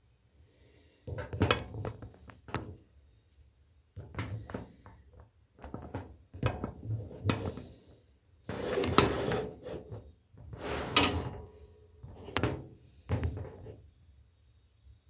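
Irregular clattering and knocks of kitchenware being handled, several separate bursts a second or so long with short pauses between them.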